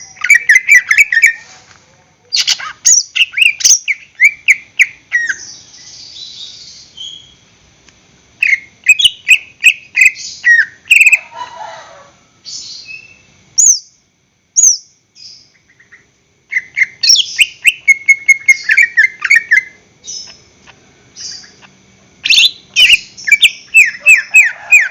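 Greater green leafbird (cucak ijo) singing: bouts of rapid, sharp, falling notes, each a few seconds long, broken by short pauses.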